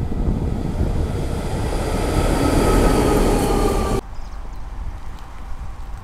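Vintage electric locomotive hauling a passenger train past at close range: the rumble of the train on the rails builds up with a faint whining tone over it, then cuts off suddenly about two-thirds of the way through. After that comes quieter wind noise on the microphone.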